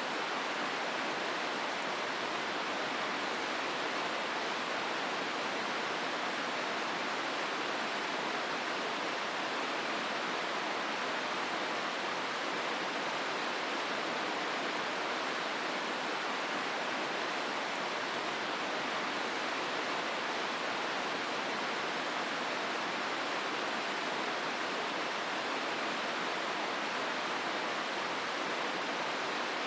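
Hozu River water rushing steadily through the gorge, a constant even roar of flowing water.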